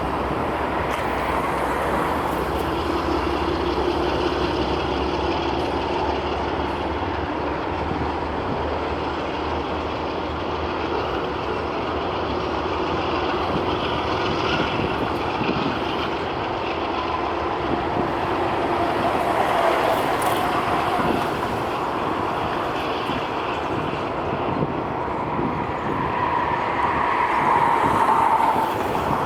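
Steady engine rumble with faint tones that drift slowly in pitch, rising a little near the end.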